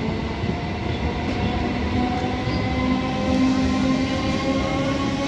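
Old EMU electric local train running close by: a steady rumble of wheels on the rails, with a motor whine that rises slowly in pitch.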